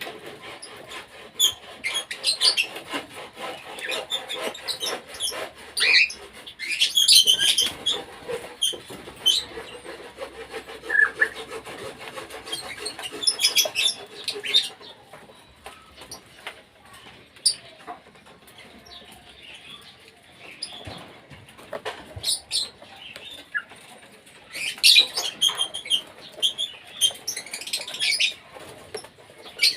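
Colony flock of cockatiels and budgerigars chirping and calling. It comes in bursts of high chatter, with a quieter stretch in the middle.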